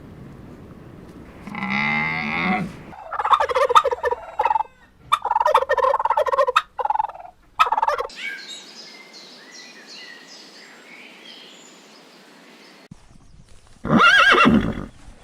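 A cow's long low moo, then a turkey gobbling in a rapid series of short broken calls. Then faint high twittering, and near the end a loud horse whinny that rises and falls in pitch.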